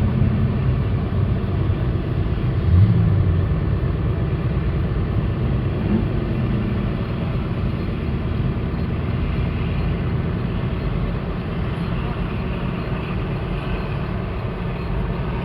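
Car engine idling with a steady low rumble, swelling briefly about three seconds in.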